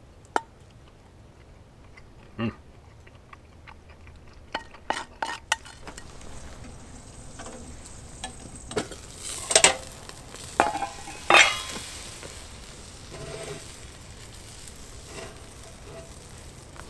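Bacon-wrapped sausage sizzling as it cooks, the hiss of frying fat coming up about six seconds in, with several sharp metal clinks and knocks of cookware.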